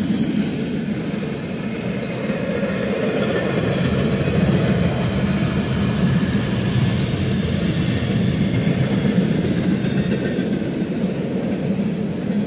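Double-stack intermodal freight train's container well cars rolling past: a steady rumble of steel wheels on rail, with faint high-pitched tones over it.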